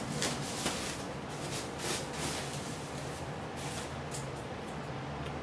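Packaging rustling and shuffling in irregular bursts while a monitor is handled and lifted out of its box, busiest in the first few seconds and then quieter.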